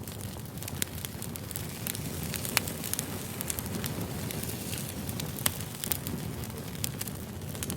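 Wood fire burning: a steady low rumble of flames with scattered sharp crackles and pops, the loudest about two and a half and five and a half seconds in.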